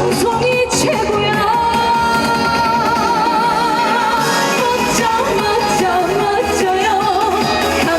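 Trot song performed live: a singer's voice over music accompaniment, with a long note held with vibrato near the middle.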